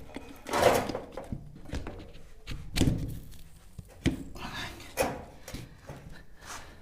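Several separate knocks and thuds with short scraping, from plastic pipes and fittings being handled and set down during pipe soldering.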